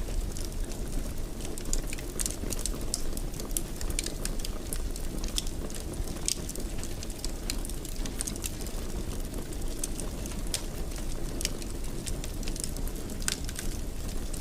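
Wood fire burning in a fireplace: a steady low rumble of flames with frequent, irregular crackles and pops from the burning wood.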